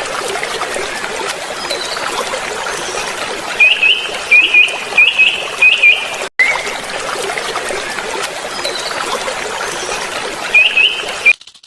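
Birds chirping over a dense, steady chatter, with a quick run of loud, sharp upward-hooked chirps in the middle and a couple more near the end.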